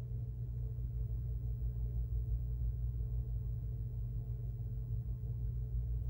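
A steady low hum with a faint higher tone over it, unchanging throughout.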